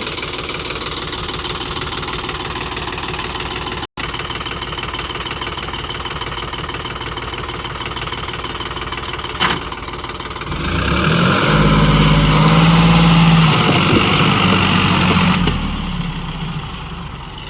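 Sonalika DI 734 tractor's diesel engine running steadily, then revved hard under load from about ten seconds in for around five seconds as it pulls out of the mud, before dropping back to a lower speed.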